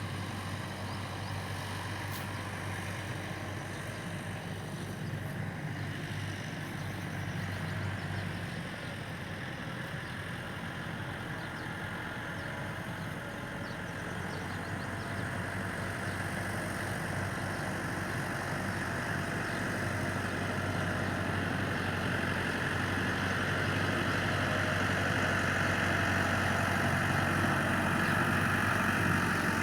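An engine idling steadily with a low hum, joined by a hiss that grows louder through the second half.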